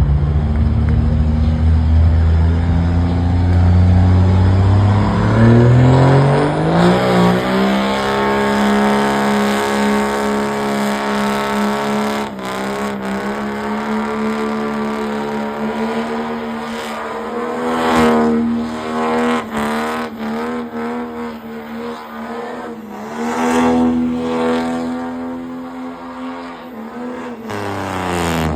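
Vehicle engine revving up over the first several seconds, then held at high revs for about twenty seconds before dropping off near the end.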